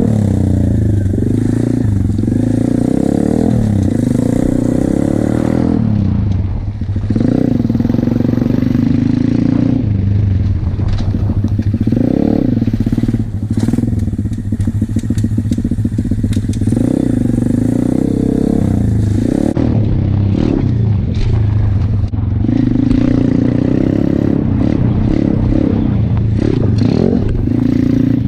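Pit bike engine revving hard and falling off over and over as it is ridden fast off-road. The throttle opens and closes repeatedly, with the engine dropping off briefly twice, and the bike clatters and scrapes over rough ground.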